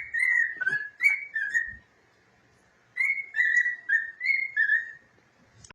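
Cockatiel whistling its song: two short phrases of clear whistled notes stepping up and down in pitch, with a pause of about a second between them.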